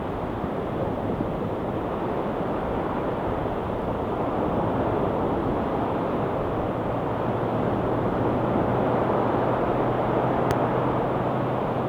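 Ocean waves washing onto the shore as a steady, dense rushing noise, swelling slightly louder in the second half.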